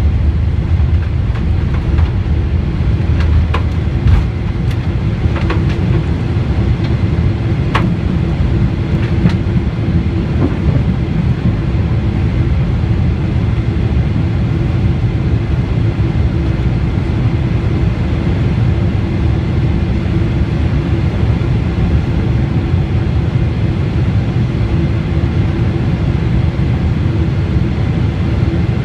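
Boeing 747-8 under takeoff power, its GEnx engines making a loud, steady low rumble with a steady hum over it. Rattles and knocks come through during the first ten seconds or so, then die away, leaving a smooth, even roar.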